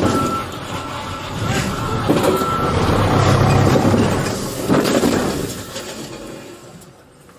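A motor vehicle running, its engine rumble and road noise swelling about two seconds in and fading away toward the end.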